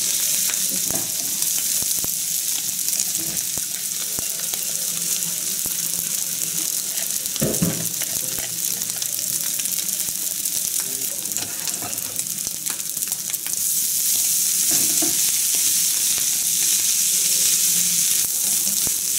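Ground pork and freshly added cooked rice sizzling in a non-stick frying pan, with light clicks and scraping from the rice paddle and chopsticks as the rice is scooped in and stirred. The sizzle gets louder about two-thirds of the way through.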